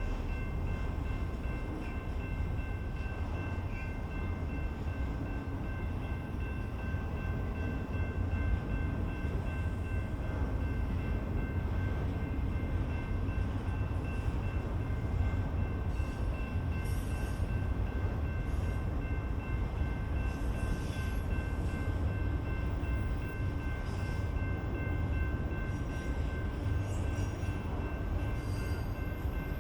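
BNSF freight train rolling past, its railcars making a steady low rumble, with a thin, steady high whine above it.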